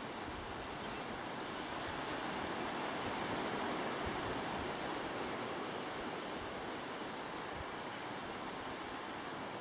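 A steady rushing noise that swells a little around the middle, with a faint steady high tone running through it.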